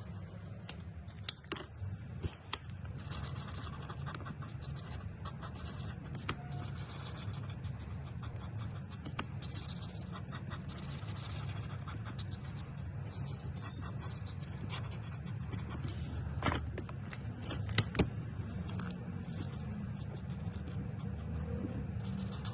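Alcohol marker tips scratching and rubbing across paper in continuous strokes over a steady low hum, with a few sharp clicks about two-thirds of the way through.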